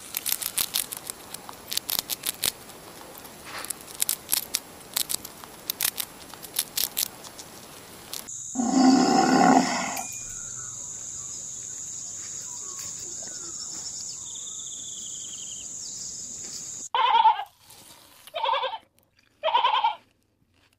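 A run of animal sounds in separate short clips. First come rapid irregular clicks for about eight seconds, then a loud pitched call lasting about two seconds, then a steady high-pitched tone. Near the end there are three short bleat-like calls.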